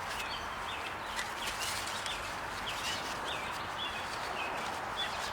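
Birds chirping, many short repeated calls, over a steady background hiss, with a few faint clicks.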